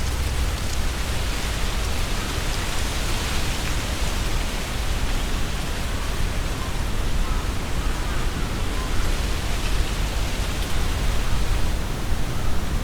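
Tree leaves rustling steadily in a strong wind, with a low rumble of wind buffeting the binaural microphone.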